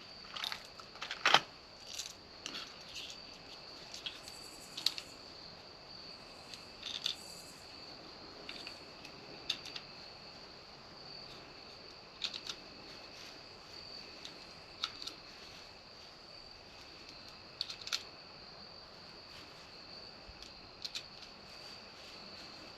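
Scattered short, sharp clicks and cracks, about a dozen, the loudest about a second in, over a steady high-pitched drone like chirping crickets.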